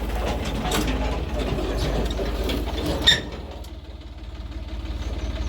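Heavy diesel engine running, with a sharp clank about three seconds in. After the clank the engine eases off, then builds up again.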